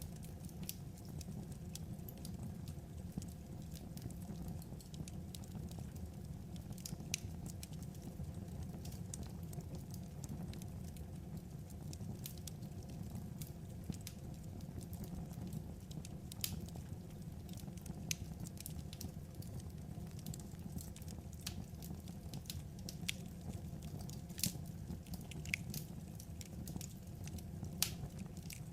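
Wood fire crackling: irregular sharp pops and snaps, several a second, over a steady low rush from the burning logs.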